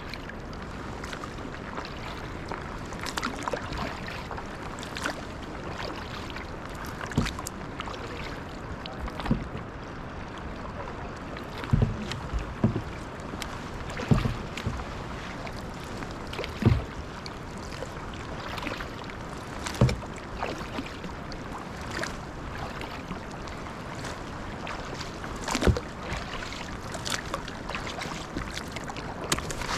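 Kayak paddling: paddle strokes splashing and knocking every two to three seconds over a steady wash of water and wind.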